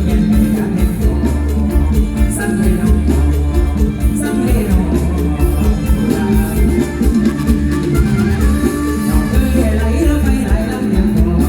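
Amplified live mor lam band music with a heavy bass line and a steady drum beat.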